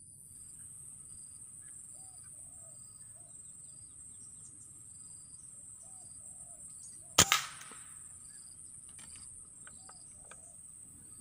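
A single shot from a .177 PCP bullpup air rifle about seven seconds in, a sharp crack with a smaller second crack just after. Under it, a steady high insect drone and repeated short bird calls.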